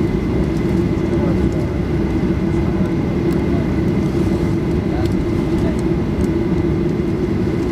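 Steady cabin drone inside a Boeing 737-800 with its CFM56 jet engines running: a constant hum with a thin high whine over it.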